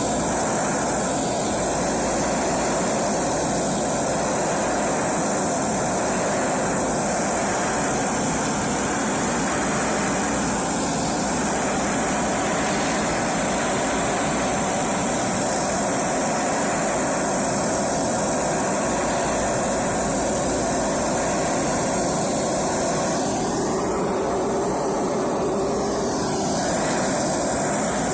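A power tool running steadily with an even rushing noise, its tone changing briefly near the end.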